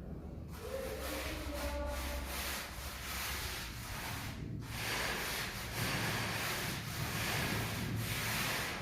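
Scraping and rubbing strokes of a tool across a cement mortar floor base that is being levelled to a drainage slope, with a short pause about halfway.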